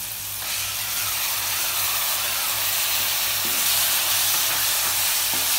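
Chopped tomato sizzling in hot coconut oil with frying onions in an uruli, stirred with a spatula. The sizzle gets louder about half a second in and brighter again past the middle as the tomato spreads through the hot oil.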